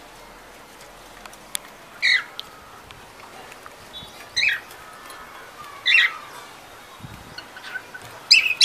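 Pet cockatiel calling: four short, loud squawks about two seconds apart, each dropping in pitch, the last a little longer.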